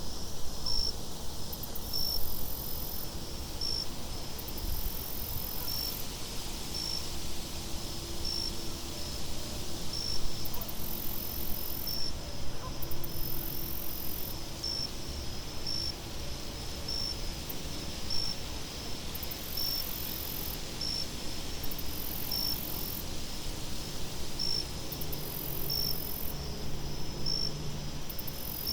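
Crickets chirping in a steady rhythm, a short high chirp about once a second, with a higher insect trill that comes and goes. A low rush of wind runs underneath.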